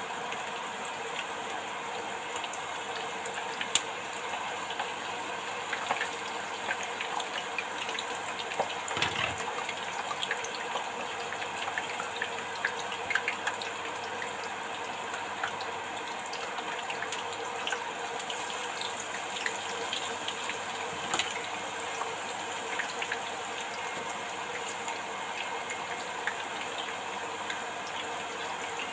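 Batter-coated beetroot leaves deep-frying in hot oil: a steady sizzle with many small crackles and pops, and a single soft knock about nine seconds in.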